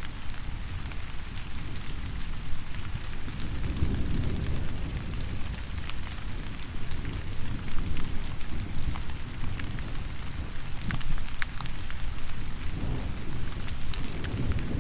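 Steady rain with scattered sharp drop ticks, under a low rolling rumble of thunder that swells about four seconds in and again near the end.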